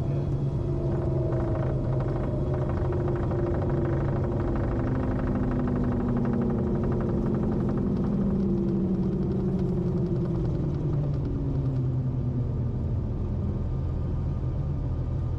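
Cessna Corvalis TTX's engine running steadily, heard from inside the aircraft. Over a constant low hum, several tones glide slowly down in pitch over about ten seconds.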